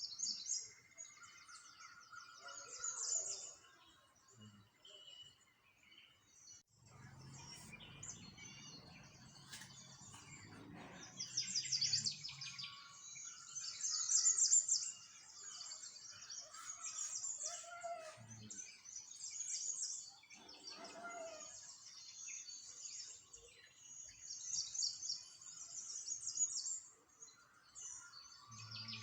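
Many small birds chirping and singing together, high twittering calls overlapping almost without a break, with a few lower calls among them. A low hum sits underneath for a few seconds near the middle.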